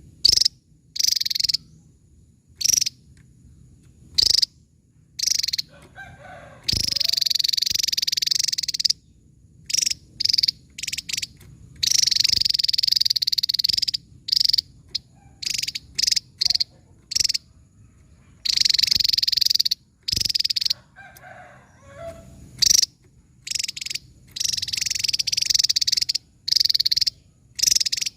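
Javan tesia singing: repeated bursts of rapid, high-pitched notes, some brief and some running for two or three seconds, each stopping abruptly before the next.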